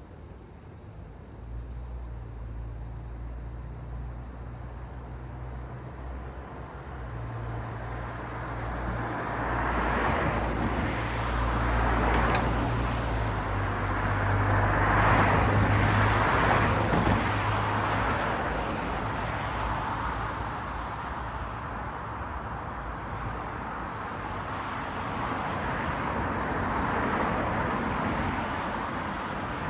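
City road traffic: several vehicles pass, their tyre and engine noise swelling and fading one after another, over a low steady engine hum. A brief high squeak comes partway through.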